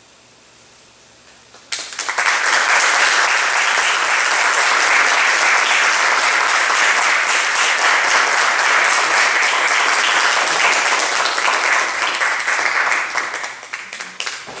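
Audience applause bursting out suddenly about two seconds in and running on as sustained clapping, tapering off near the end.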